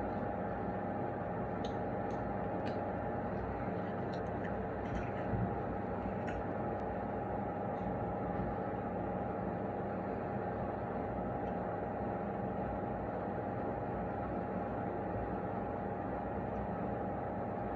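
Steady mechanical hum of a small motor running, with a few faint ticks.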